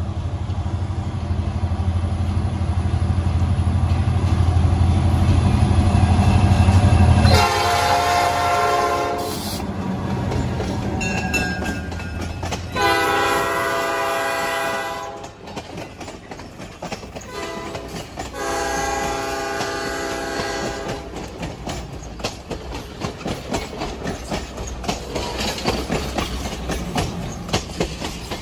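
Passenger train with a diesel locomotive passing close by: a heavy engine rumble builds as the locomotive nears, then its multi-tone air horn sounds three long blasts. After that the coaches roll past with a steady clickety-clack of wheels over the rail joints.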